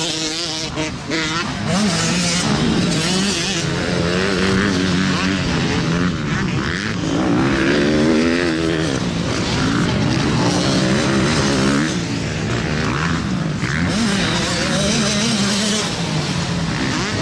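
Several motocross bike engines revving together, their pitch rising and falling as the riders work the throttle, overlapping without a break.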